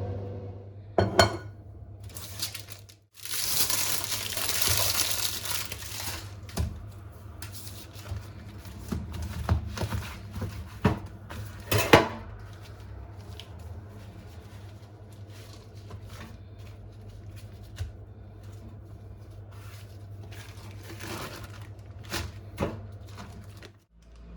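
Dishes and cutlery clinking and knocking as tableware is handled, with a few seconds of rustling hiss about three seconds in. A steady low hum runs underneath and stops shortly before the end.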